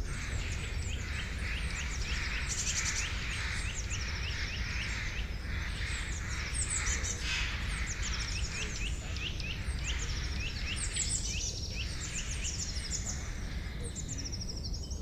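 A dense chorus of several birds chirping and singing at once: many short, quick high notes overlapping throughout, over a steady low background rumble.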